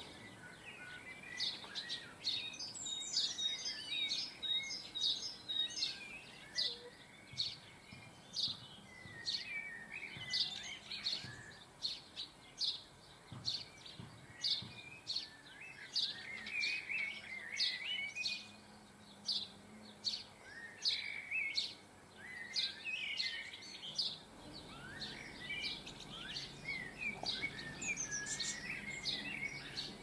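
Garden birds chirping and calling: a continual run of short, sharp chirps, several a second, with twittering, warbling phrases mixed in.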